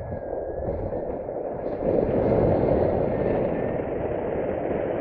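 Wind rushing and buffeting over the microphone, a steady rumbling noise that grows louder about two seconds in.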